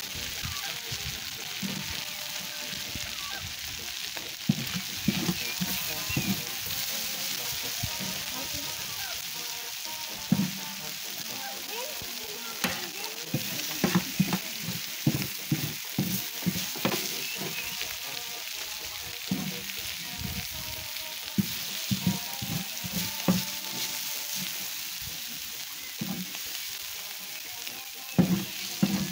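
Meat and green vegetable strips frying on a large round metal pan over a wood fire: a steady sizzle with frequent sharp pops.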